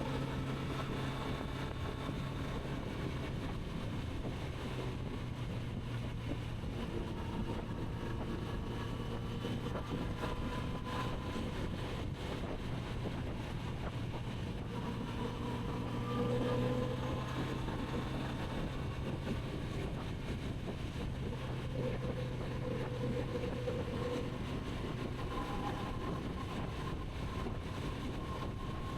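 Kawasaki Z900RS's inline-four engine running steadily on the move, its pitch rising and falling a little with the throttle.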